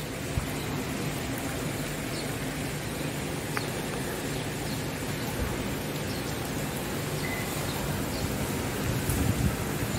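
Heavy rain falling steadily onto floodwater and wet ground, an even hiss of drops, with a faint low hum underneath.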